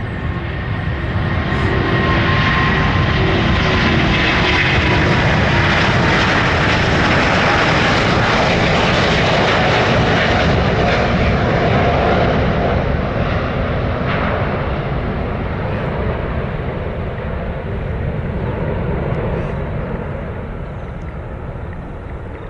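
Airbus A350-900's Rolls-Royce Trent XWB turbofans at takeoff thrust as the airliner departs. The roar swells within the first couple of seconds with a high whine sliding slightly lower, stays loud for about ten seconds, then slowly fades away.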